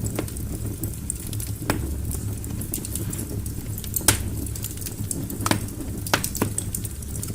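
Wood fire burning in a fireplace: a steady low rumble of flames with scattered sharp crackles and pops from the logs, the loudest pop about four seconds in and a few more near the end.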